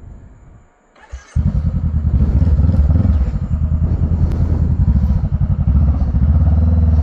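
Motorcycle engine running steadily. It comes in suddenly about a second in, after a brief quiet stretch and a short knock.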